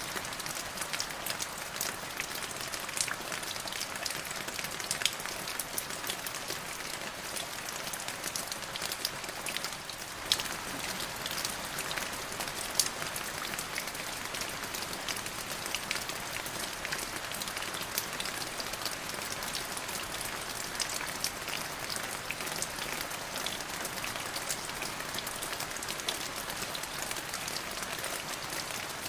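Steady rain falling on a surface, a constant hiss with many separate drop ticks scattered through it.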